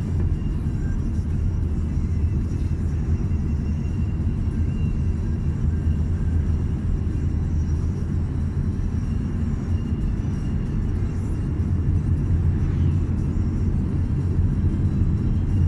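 Car cabin road noise while driving: a steady low rumble of engine and tyres.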